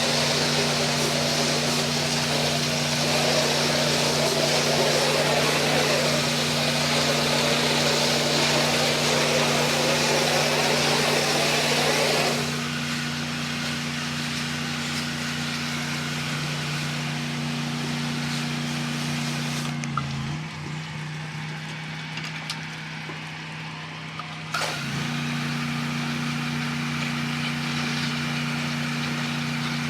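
Honda-engined 8 gpm pressure washer running steadily, with the hiss of the water spray for the first half that stops about twelve seconds in while the engine keeps running.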